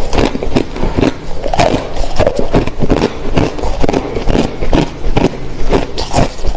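Hard crushed ice crunching between the teeth, close to the microphone: a rapid, uneven run of sharp, loud crunches, several a second, without a break.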